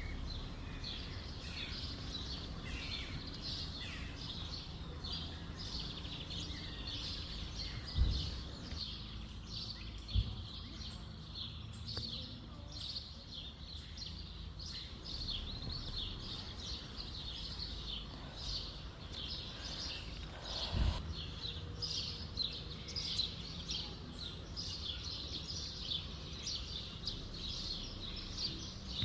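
Many small songbirds chirping and singing at once without a break, high-pitched, over a low steady rumble, with three short dull thumps.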